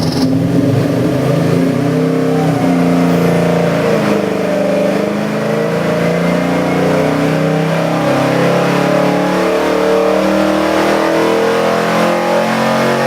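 Big-block Chevy 572 cubic-inch stroker V8 running on an engine dyno, its revs wavering up and down and climbing slightly near the end.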